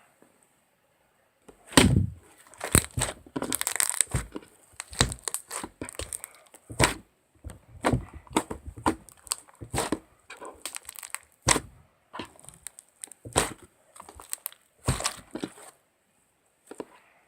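A long, irregular series of sharp knocks and clacks, some close together and some a second or more apart, stopping about two seconds before the end.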